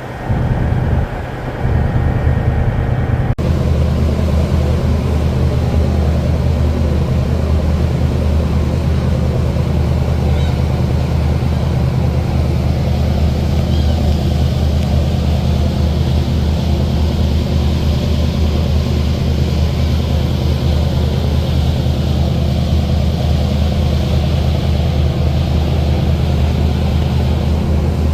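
Steady low drone of a large engine running, with a sudden change about three seconds in, then continuing unchanged.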